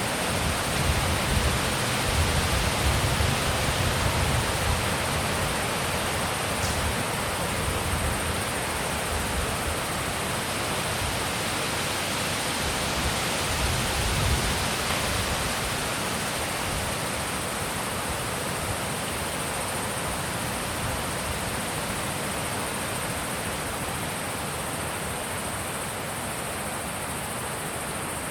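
Wind blowing steadily in an even rushing hiss, with gusts buffeting the microphone in the first few seconds and again about halfway through, then easing slightly.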